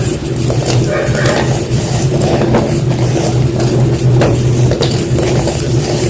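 Block of white gym chalk being crushed, with irregular sharp crunches and snaps over a steady low hum.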